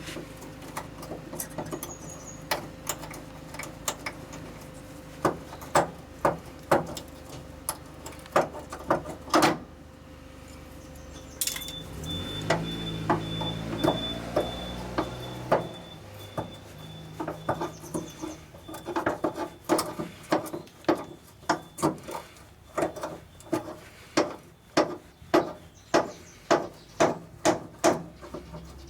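Repeated sharp knocks, about one a second and coming faster near the end, over a steady low hum, typical of a hammer tapping on car-body sheet metal during sill repair.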